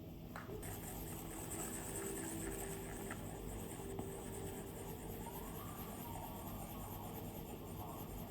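Stylus drawing strokes on an iPad's glass screen: a soft continuous scratching that starts about half a second in, with a few light taps of the pen tip.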